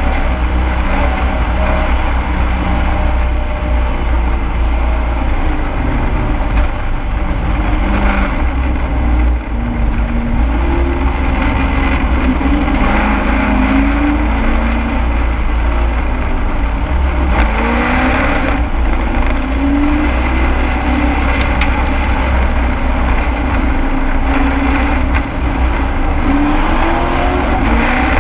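Race truck engine running hard under racing, heard from inside the cab, over heavy wind and road rumble. Its pitch climbs several times as the truck accelerates.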